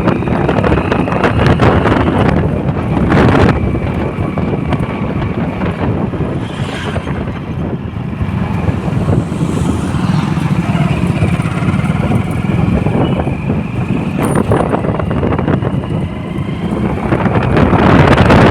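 Motorcycle engine running while riding, mixed with wind rushing over the microphone; it grows louder near the end.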